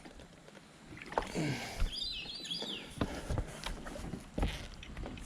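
A bird calling in a quick run of short falling chirps about two seconds in, with a few sharp knocks scattered around it.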